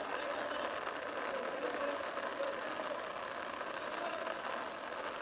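Steady outdoor background hiss with faint, indistinct voices calling in the distance.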